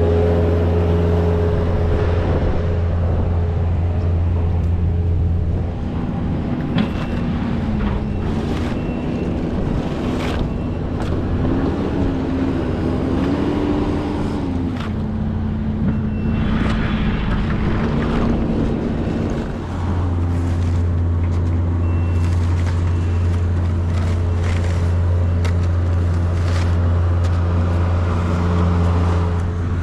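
A vehicle engine running steadily with a strong low hum. From about six to twenty seconds in, the hum eases and the engine note wanders up and down as the revs change, with a few short clicks and knocks over it.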